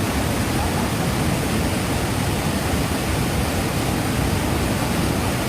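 Fast floodwater rushing through a flooded desert wash, a steady, unbroken rushing noise.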